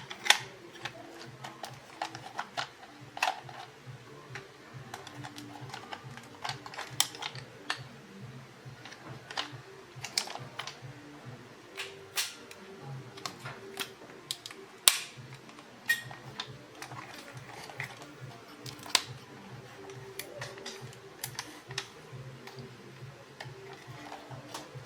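Irregular clicks and light taps of small plastic toy parts and tools being handled, a few a second at uneven spacing.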